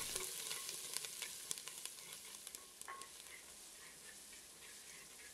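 Shallots, curry leaves, ginger and garlic sizzling in sesame oil in a pot over a wood fire, stirred with a ladle; a faint hiss with small crackles that grows gradually fainter.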